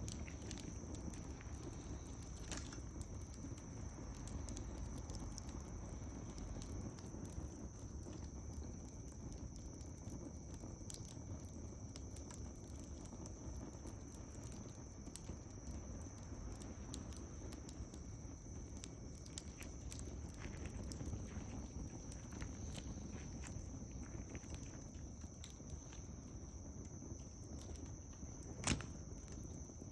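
Bonfire of wood crackling, with scattered faint pops and one sharper pop near the end, over a low rumble and a steady high-pitched tone.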